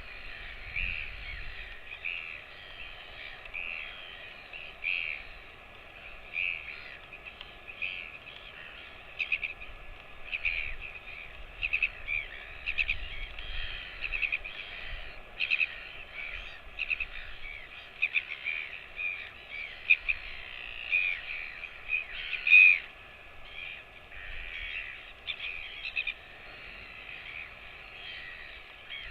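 Birds calling: a steady stream of short, repeated calls, one call about three-quarters of the way through louder than the rest.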